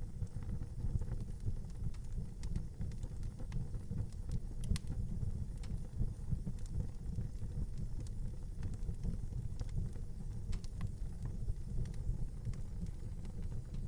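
Wood fire burning in a fireplace: a steady low rumble with scattered crackles and pops, the sharpest a little under five seconds in.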